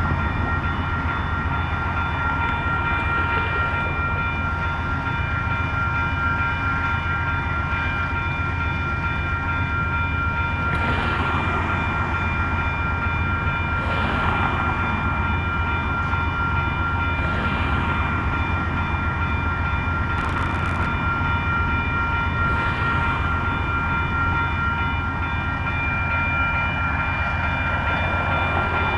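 Amtrak diesel locomotive idling at a standstill: a steady low engine drone with several constant whining tones above it. Short hisses rise and fade every few seconds, about six times.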